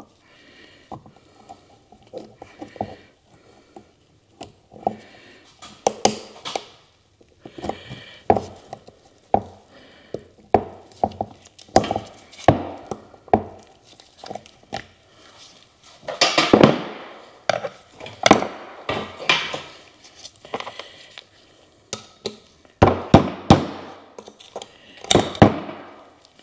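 Hand tools and metal parts clinking, tapping and knocking against each other at an irregular pace, with denser bursts of clatter in the second half.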